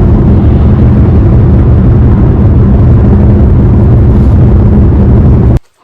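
Loud, steady drone of a car's engine and road noise while driving, cutting off suddenly near the end.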